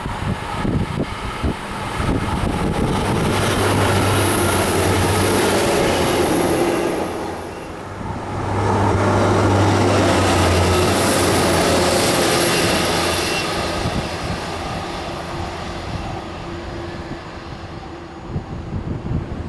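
Arriva Trains Wales diesel passenger train passing close underneath: engine hum and wheel-on-rail noise. Two loud swells about four and ten seconds in, with a short dip between, as the cars pass, then fading as it draws away.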